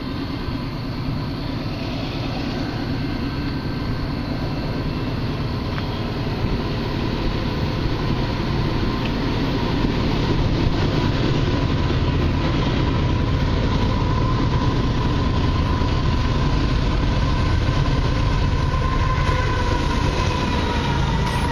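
Diesel-hauled freight train approaching and growing steadily louder, with the locomotives' engines running and a steady whine that drops slightly in pitch near the end as the lead units draw past.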